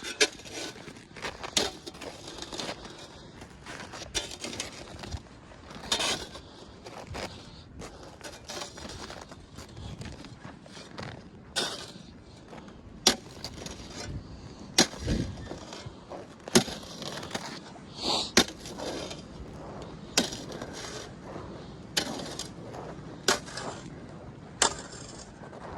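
Footsteps crunching through ice-crusted snow, one step every second or two at an uneven pace.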